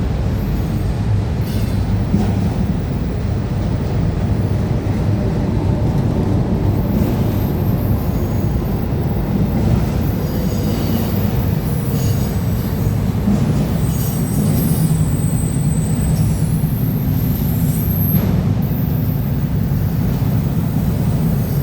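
Freight train cars rolling past with a steady low rumble on the rails. From about a third of the way in, thin, high-pitched wheel squeals come and go over the rumble.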